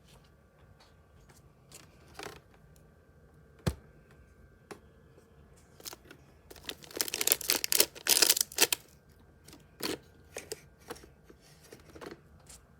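Handling noises: scattered clicks and taps, a sharp knock a little under four seconds in, and a loud burst of rustling about halfway through.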